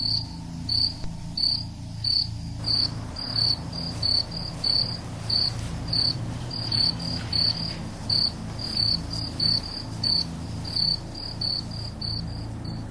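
Crickets chirping, short high chirps about two a second at slightly uneven spacing, over a low steady hum.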